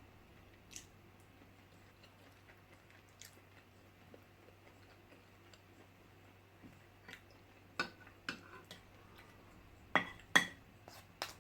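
Quiet eating: chewing with a few short, sharp clinks of cutlery on dishes, the loudest two near the end, over a faint steady low hum.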